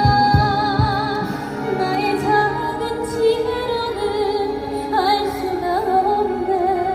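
A woman singing a slow, held melody with heavy vibrato over backing music, with a few low beats in the first second.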